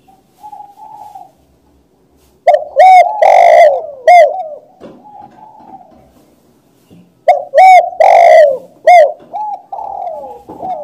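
Spotted dove cooing close and loud: a soft coo near the start, then two phrases of several rising-and-falling coos each.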